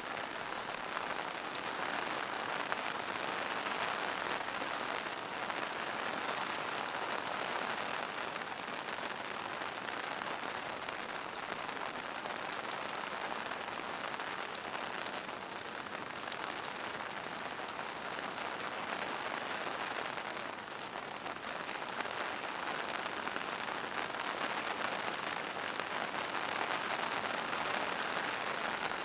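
Steady rain falling in a forest: an even, dense patter of raindrops without a break.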